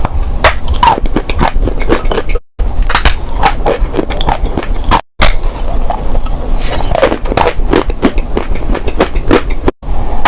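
Dry crunchy clay being crushed and crumbled, a dense run of crunches, snaps and crackles. It comes in short stretches broken by three brief silent gaps.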